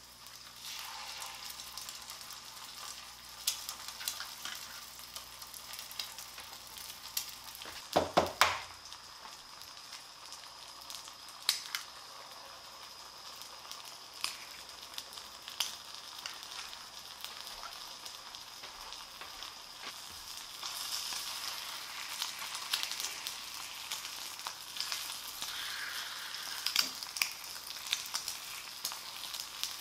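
Bacon and eggs sizzling steadily in a black steel frying pan on a portable gas burner, with scattered pops of spitting fat. About eight seconds in there is a brief cluster of sharp knocks, the loudest sound here.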